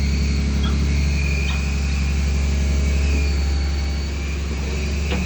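An engine running steadily at an even speed, a low, constant drone.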